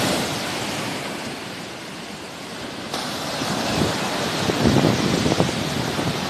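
Sea waves washing in and drawing back on the shore, easing off about two seconds in and then swelling again. Wind gusts rumble on the microphone in the second half.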